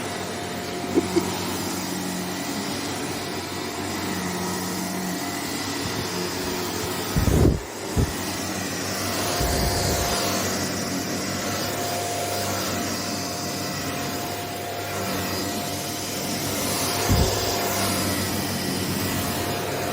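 Shark NV801UKT upright vacuum cleaner running steadily as it is pushed over a rug, with a few short thumps, the loudest about seven and a half seconds in.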